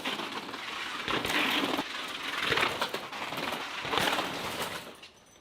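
Mountain bike riding past on a rough urban surface: tyre noise and the rattle of the bike rising and falling in several swells, then fading out near the end.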